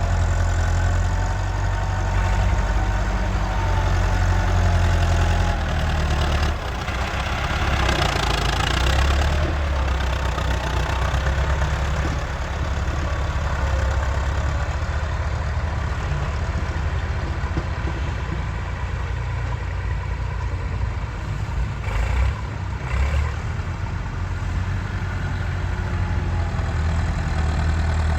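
Massey Ferguson 385 tractor's four-cylinder diesel engine running steadily, its low note shifting about six seconds in.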